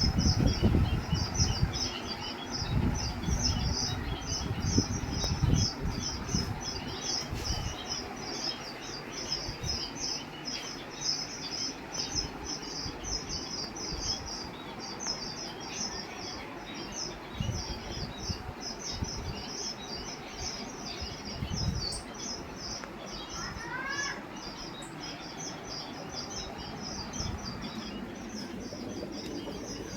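Small birds chirping: a fast, steady run of high chirps, with a few rising calls about three-quarters of the way through. Low thumps and rumble in the first few seconds.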